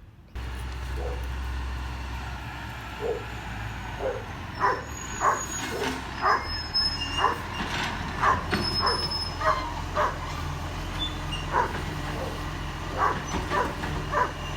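A dog barking over and over, roughly one bark every half second to second, starting a few seconds in, over the steady low running of a garbage truck's diesel engine.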